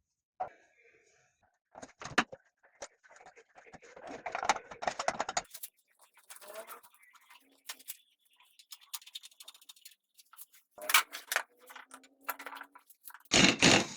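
Irregular clicks, knocks and short scrapes of small metal parts and hand tools being handled and fitted, with a louder burst of scraping near the end.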